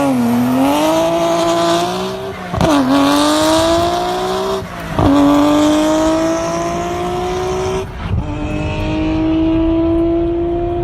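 Car engine accelerating hard through the gears, its pitch climbing steadily and dropping sharply at three gear changes.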